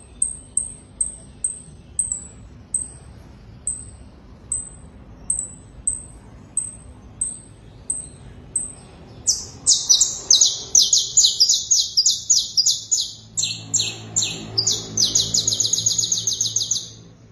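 Domestic canary singing: a string of short, high single notes repeated about two a second, then from about nine seconds in, loud rapid trills and rolls that stop shortly before the end.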